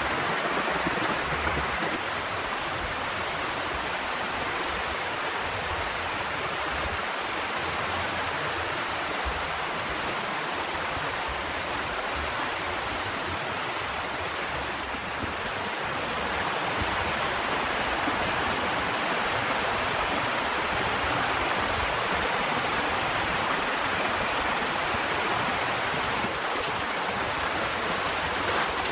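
Heavy rain falling steadily, an even wash of noise that grows a little louder about halfway through.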